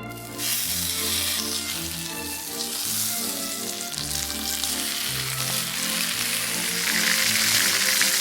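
Bacon and eggs sizzling in a frying pan, starting about half a second in and growing louder toward the end, over background music.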